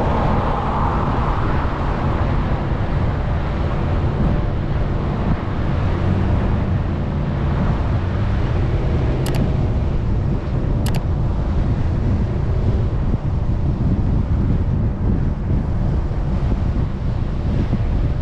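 Off-road vehicle driving over sand with a steady engine drone and heavy wind buffeting the microphone. Two short sharp clicks come about nine and eleven seconds in.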